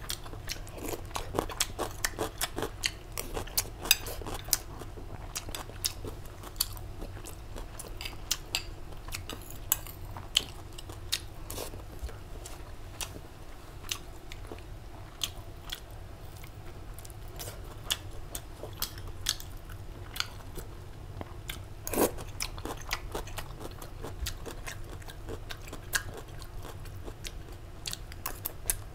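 A person chewing and eating close to a clip-on microphone: mouthfuls of rice with grilled sausage and pickled vegetables. Irregular small clicks and smacks come through, with one louder click about three-quarters of the way through.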